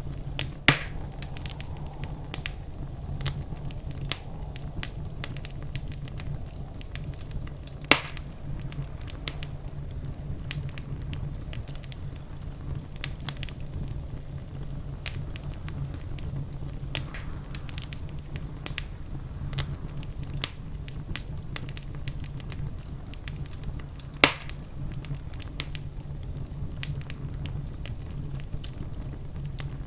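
Wood fire in a fireplace crackling steadily, with many small snaps and three louder pops: one about a second in, one near the middle of the first third, and one past the three-quarter mark. A steady low rumble runs beneath.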